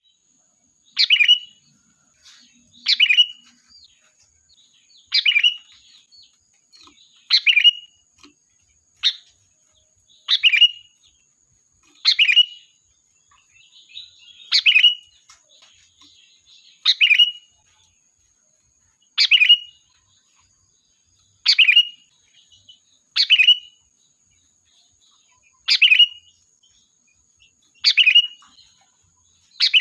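Sooty-headed bulbul (kutilang) giving a short, loud call over and over, about once every two seconds. These are lure calls meant to draw other bulbuls to the flock.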